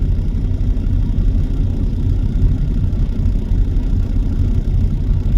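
A truck running on the road: a steady low rumble of engine and road noise with no change.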